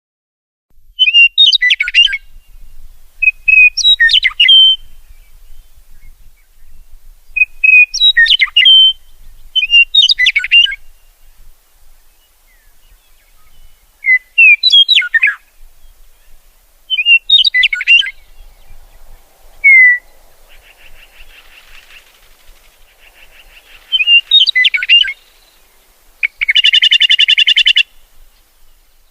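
A songbird singing short chirpy phrases, repeated every two to three seconds. Near the end comes one loud, harsh buzzy call about a second and a half long.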